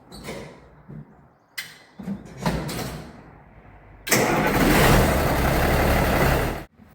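White 2-135 tractor's diesel engine starting about four seconds in, after a few scattered knocks, and running loud through its newly fitted regular muffler before stopping abruptly near the end.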